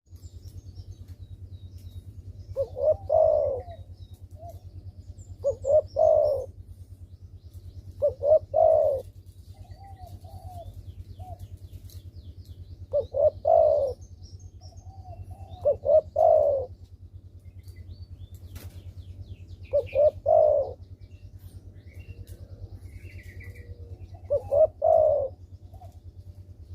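Spotted dove (derkuku) cooing in repeated phrases about every three seconds, each of two or three short notes followed by a longer coo, with a few softer coos in between. It is a vigorously calling ('gacor') bird, the kind of song used as a lure to get quiet doves to call.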